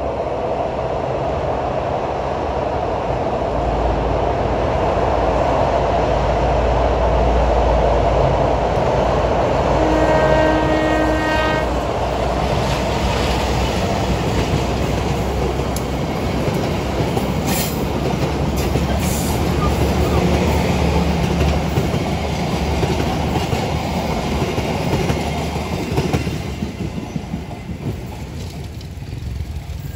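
KAI diesel locomotive hauling a passenger train past close by: a heavy engine rumble, one horn blast lasting about a second and a half about ten seconds in, then the clatter of the coaches' wheels over the rails, easing off near the end as the last coach goes by.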